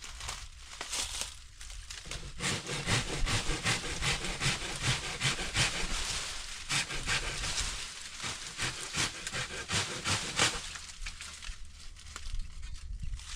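Rapid rhythmic scraping strokes, several a second, that start about two seconds in and stop about ten and a half seconds in.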